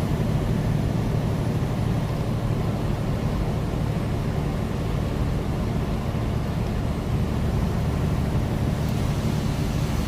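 Semi truck's diesel engine running steadily at highway speed with tyre and road noise, heard from inside the cab.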